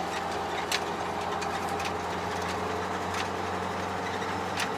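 MAZ-5440 truck's diesel engine running steadily, heard from inside the cab, with a few faint clicks over the hum.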